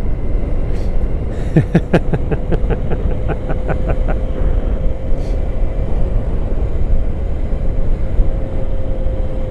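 Motorcycle on the move in traffic: a heavy, steady rumble of wind and engine on the helmet microphone, with a steady engine drone. Between about one and a half and four seconds in, a quick run of evenly spaced pulses rises over it.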